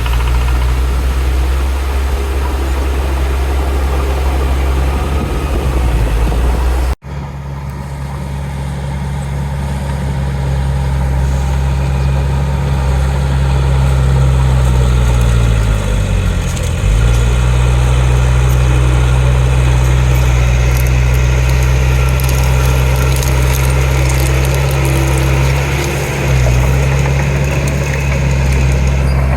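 Heavy diesel engine of earthmoving machinery running steadily with a deep, low hum. The sound cuts out for an instant about seven seconds in, then resumes, and the engine speed dips briefly and recovers about halfway through.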